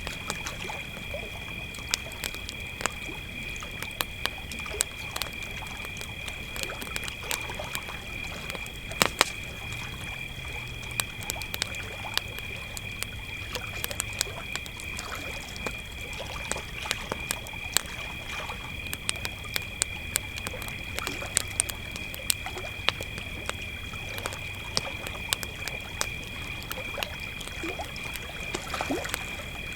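Crickets chirring steadily in two high pitches, with a campfire crackling and popping throughout.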